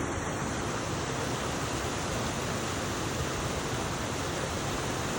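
Creek water rushing steadily, an even wash of noise with no breaks.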